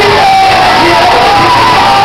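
A church congregation shouting and crying out together over loud music, a dense continuous wall of many voices.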